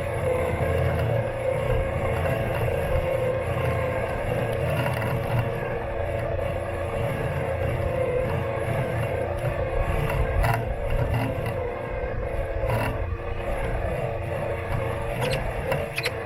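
Robot lawn mower running, picked up by a camera taped to its body: a steady motor hum with several tones over a rough rumble. A few sharp clicks come about ten and thirteen seconds in and near the end.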